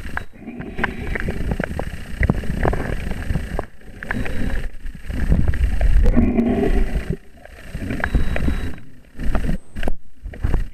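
Water noise against a camera in the sea: irregular rumbling and sloshing with crackles and clicks, cut by several brief dropouts.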